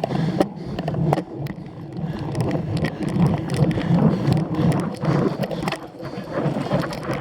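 Cyclocross bike ridden over rough ground: the chain, drivetrain and frame rattle and click irregularly over a steady low rumble of tyres on the course.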